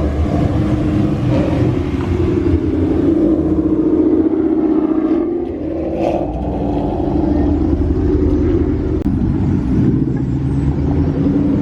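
Loud car engine running close by at low speed, a steady deep rumble that swells a little a few seconds in and eases around the middle before settling again.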